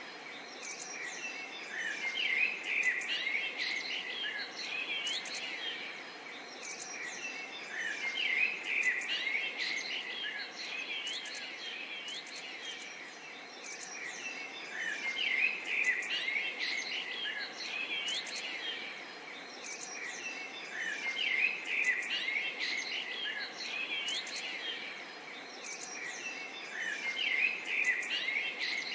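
A chorus of small songbirds chirping and twittering, with several birds calling over each other. The calling swells into busier bursts about every six seconds over a faint steady background hiss.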